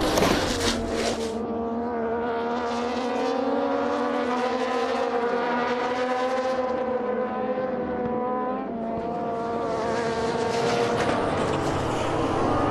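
Racing engines running at high revs, a steady high engine note that wavers slightly, dips a little about two-thirds of the way in and then climbs again.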